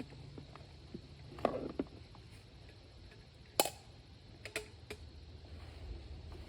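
Scattered light clicks and knocks of small objects being handled, with a brief scraping rustle about a second and a half in and one sharp click near the middle.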